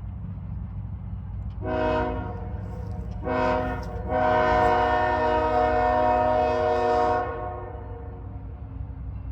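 A diesel locomotive's multi-chime air horn sounding two short blasts and then one long blast of about three seconds, over a steady low rumble from the approaching freight train.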